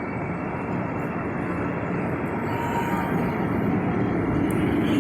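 Electric metro train running along the track, a steady rolling rumble that grows louder toward the end as it comes closer.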